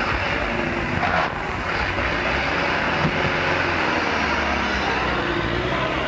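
A car engine running steadily under a constant hiss, with one dog bark about a second in.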